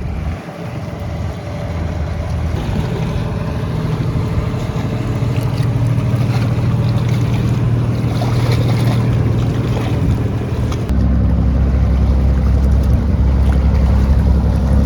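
An engine running steadily with a low hum that slowly grows louder and deepens suddenly about eleven seconds in, with wind buffeting the microphone.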